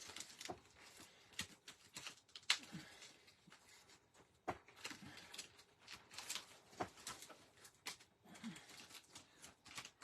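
Paper and card-making supplies being handled and pressed down on a tabletop: irregular light taps, clicks and paper rustles, the sharpest about two and a half seconds in.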